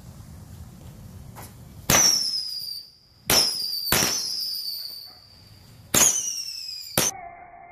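Whistling fireworks, slowed down: five sudden shrill whistles, each starting sharply, sliding down in pitch and fading, with some overlapping one another. Near the end the high whistling cuts off and a lower, steady, drawn-out tone takes over.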